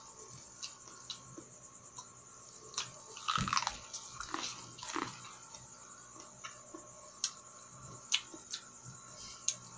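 Eating boiled sweet corn on the cob: biting into the cob and chewing, with scattered small sharp clicks and a denser run of biting sounds about three to five seconds in.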